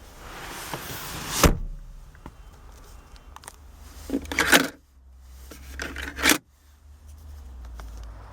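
A sharp knock about a second and a half in, then two bursts of rustling handling noise, each cutting off abruptly.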